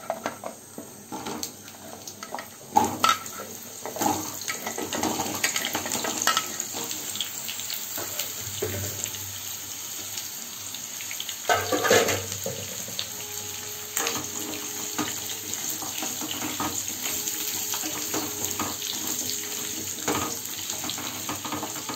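Cubes of raw papaya sizzling as they fry in hot mustard oil in a kadai over a low flame: a steady hiss, with a few knocks and clatters as pieces land in the pan, the biggest about 3 and 12 seconds in.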